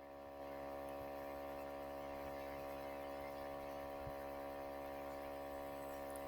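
Steady electrical mains hum and buzz, several tones stacked together, stepping up slightly about half a second in. It is the kind of hum that a loose or unplugged audio jack lets into a recording.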